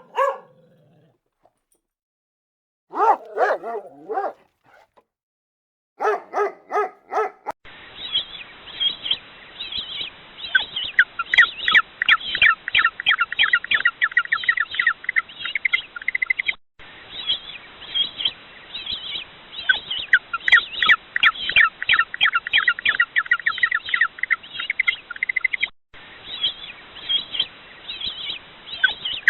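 A dog barks in a few short bursts, then from about eight seconds in comes a dense, fast chatter of many birds chirping, cutting out for an instant twice.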